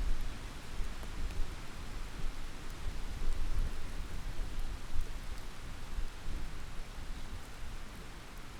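Heavy rain falling steadily, with a deep rolling rumble of thunder that fades away near the end.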